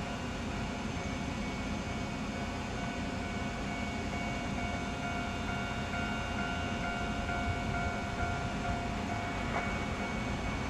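A Kominato Railway diesel railcar running along the line: a steady rumble of engine and wheels with a faint steady whine over it.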